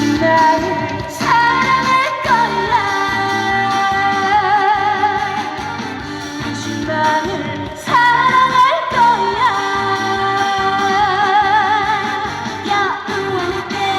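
Live trot song with a female singer holding two long notes with vibrato over band backing, each note starting with an upward slide; the music stops right at the end as the song finishes.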